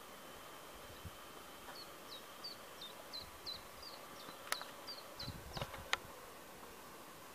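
A small songbird singing faintly: a run of about a dozen short, high notes, each sliding downward, at roughly three a second. Near the end come a few sharp clicks.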